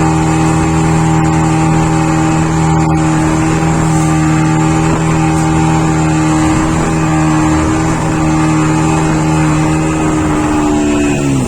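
Motorboat engine running steadily at speed, then throttling down with a falling pitch just before the end.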